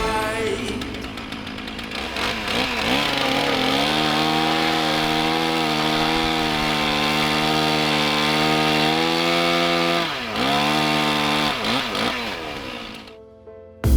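Chainsaw revving up about three seconds in and held at high revs for about six seconds, as in a cut. It then drops back with a few short revs and fades out near the end.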